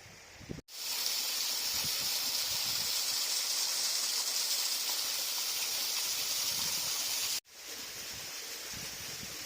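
Steady hiss of rushing river water, starting abruptly about a second in and cutting off suddenly near 7.5 s, followed by a quieter rush.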